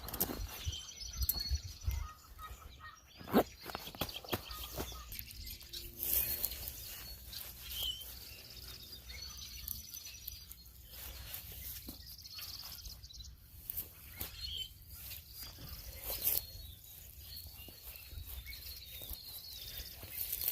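Small birds chirping and calling intermittently in outdoor ambience, with scattered sharp clicks and knocks close by.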